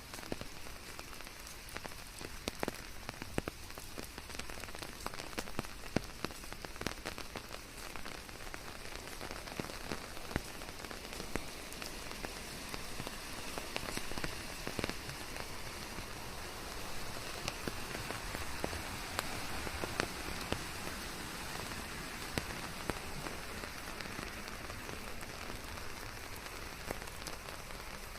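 Steady rain falling on a surface, a continuous hiss with many individual drops ticking and pattering throughout.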